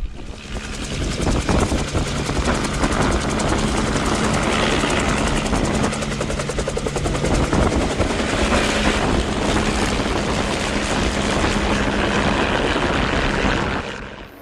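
Helicopter running close by: a loud, steady rotor noise with a fast, even blade chop.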